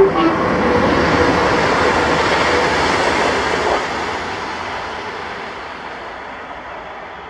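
A train running past in the station, its rumble loudest at first and fading away steadily over several seconds.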